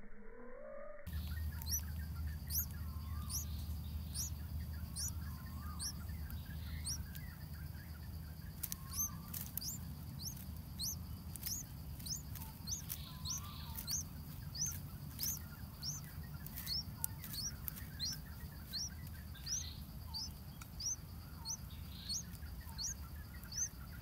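A small bird's high, thin chirps, each falling quickly in pitch, repeated about one to two times a second over a steady low rumble.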